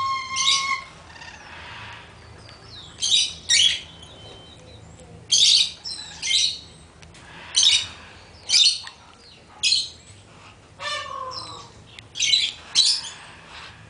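Birds squawking and chirping: short harsh calls, often two in quick succession, repeating every second or two, with a brief falling whistle about eleven seconds in.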